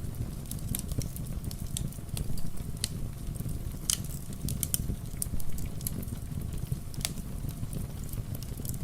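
Wood fire crackling in a fireplace: irregular sharp pops, a few a second, over a steady low rumble, with rain ambience mixed in.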